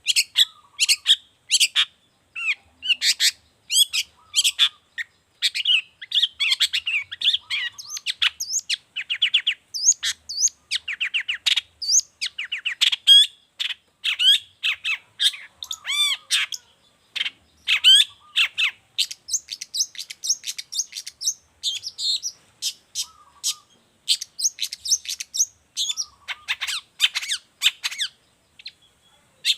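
Long-tailed shrike singing a fast, varied song of sharp chirps, rapid repeated notes and trills, in quick phrases broken by short pauses.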